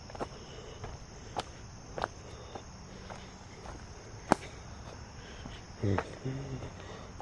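Steady high chirring of insects in the woods, with scattered sharp crunches and snaps of footsteps on dry leaves and twigs, the loudest about four seconds in. A brief low voice sound comes about six seconds in.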